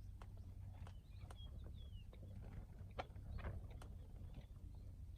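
Outdoor ambience: a few short bird chirps over a low steady rumble, with scattered light clicks and knocks.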